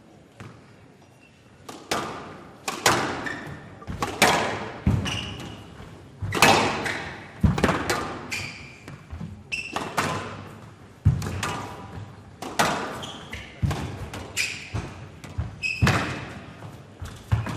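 Squash rally: the ball struck by rackets and cracking off the court walls, sharp hits with a short echo about once or twice a second, with short high squeaks between hits. Quiet for the first two seconds, then the hits begin.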